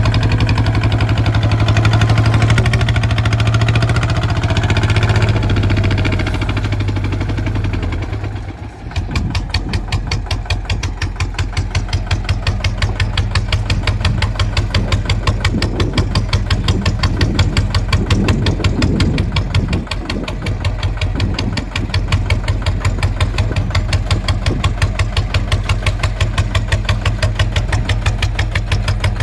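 Kubota ZT 155 tractor's single-cylinder diesel engine running. For the first eight seconds or so it runs harder, then it drops to an even, rapid chugging beat.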